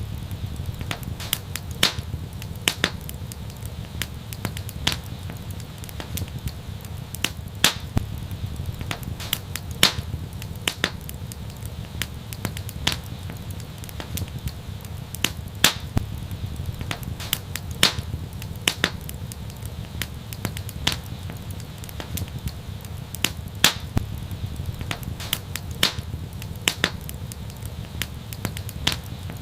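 Wood fire crackling: sharp irregular pops and snaps, a few a second with some much louder than others, over a steady low rumble of the burning.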